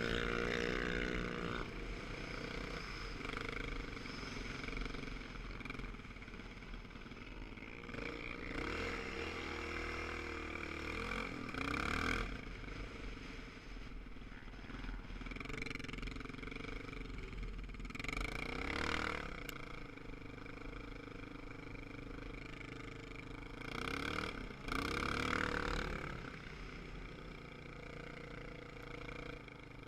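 Motorcycle engines running steadily, their pitch rising and falling several times as they rev or pass.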